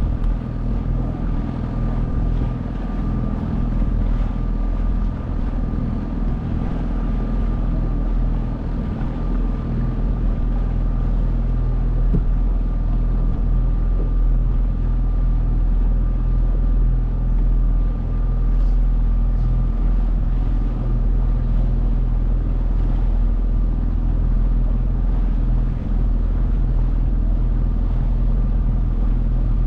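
A 9.8 hp outboard motor running steadily at a constant throttle, with a thin, steady high whine over its even drone.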